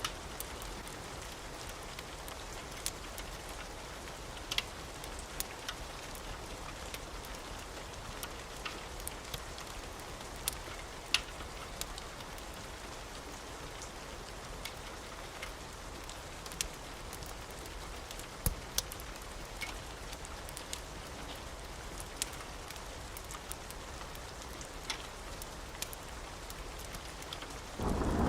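Wood fire crackling in a fireplace: a steady soft hiss with scattered sharp pops and snaps. A loud low rumble starts just before the end.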